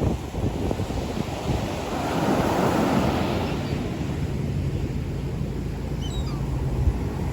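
Ocean surf breaking and washing ashore, with wind buffeting the microphone. A wave swells about two to three seconds in.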